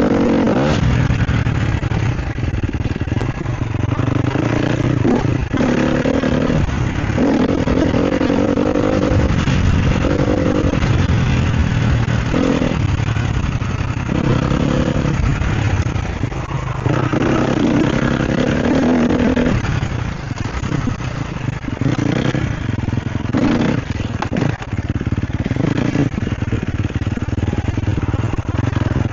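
Sherco SEF 250 enduro bike's four-stroke single-cylinder engine revving up and dropping back over and over as it is ridden hard off-road, with rattles and knocks from the bike and the ground.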